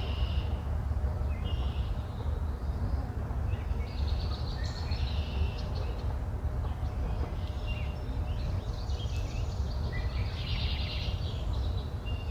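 Small backyard birds chirping and calling in scattered bursts of short, high notes over a steady low rumble.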